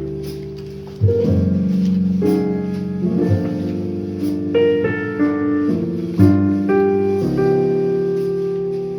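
Piano music: slow chords struck about once a second or two and left to ring and fade.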